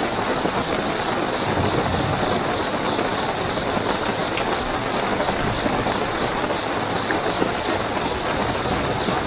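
Steady heavy rainfall with a continuous high-pitched cricket trill over it, and an occasional tick of a single drop.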